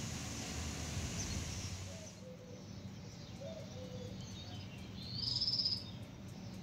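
Small birds chirping, with one bird giving a short high trill about five seconds in, the loudest sound; a steady background hiss fills the first two seconds.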